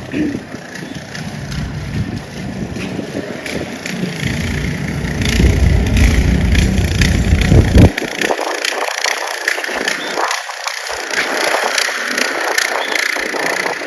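A motor vehicle's low engine rumble, growing louder and then cutting off sharply about eight seconds in, followed by a steady hiss of wind and slush.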